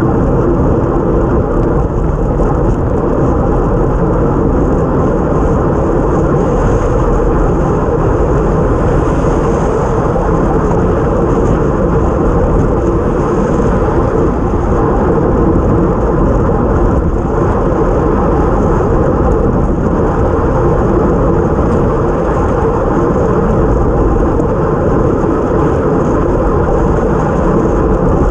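Steady rush of wind and road noise on a camera mounted to a time-trial bike ridden at racing speed on a wet road.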